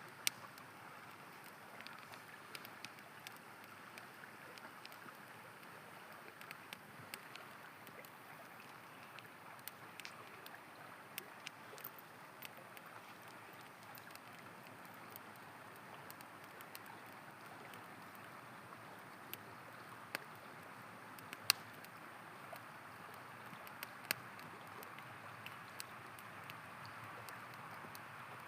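A river flowing steadily, with a wood campfire crackling over it in scattered sharp pops, a couple of louder pops about two-thirds of the way through.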